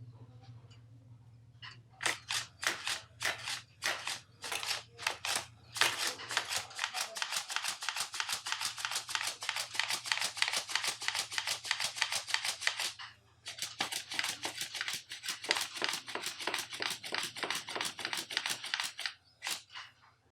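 Paper origami flapping bird being worked, its paper wings flapping in a fast, even rhythm of crisp rustles, with a brief stop about two-thirds of the way through.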